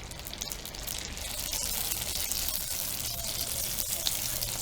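Egg rolls deep-frying in hot oil: a steady sizzle with crackles, growing louder about a second in.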